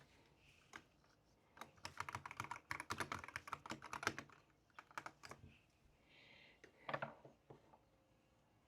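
Typing on a computer keyboard: a fast run of keystrokes for about two and a half seconds, then a few scattered key presses and a louder knock about seven seconds in.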